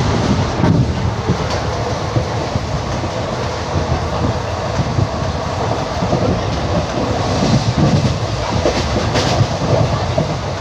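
Wheels of ICF passenger coaches running on the rails: a steady rumble with irregular clacks and clicks.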